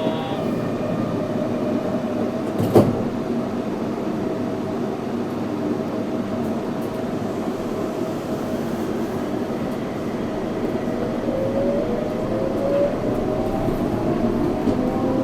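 Yurikamome 7300-series rubber-tyred automated guideway train running, heard from inside the car: a steady rolling noise with a motor hum, one sharp knock about three seconds in, and a rising motor whine over the last few seconds as it picks up speed.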